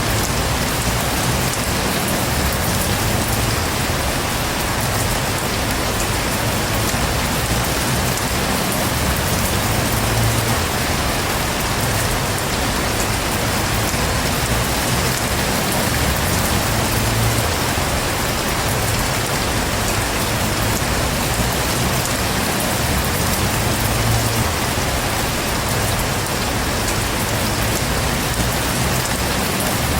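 Heavy, steady rain falling on a surface, with a low rumble that swells and fades every few seconds.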